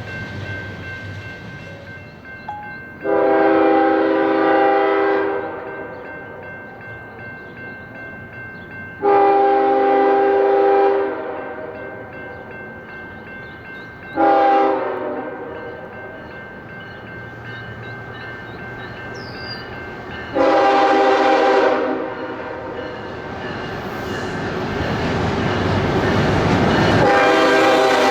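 Locomotive horn sounding the grade-crossing signal as a chord of several tones: long, long, short, long. A train's rumble then builds as it nears, and the horn sounds again near the end.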